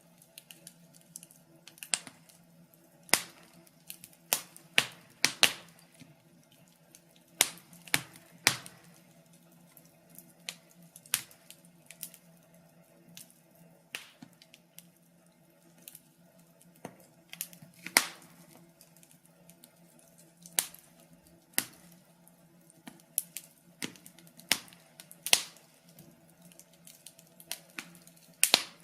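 Wood fire crackling in a fireplace: irregular sharp pops and snaps, a louder one every second or two, over a faint steady low hum.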